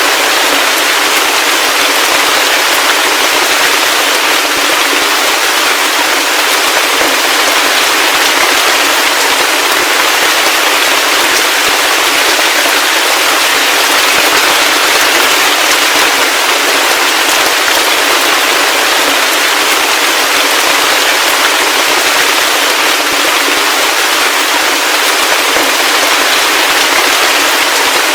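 Heavy rain falling steadily: a dense, even hiss of crackling drop impacts, with no low rumble and no thunder.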